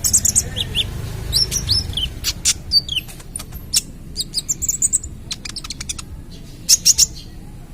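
Young kolibri ninja sunbird singing a fast, busy run of high chirps, sharp clicks and short rising whistles, with a loud burst of notes near the end.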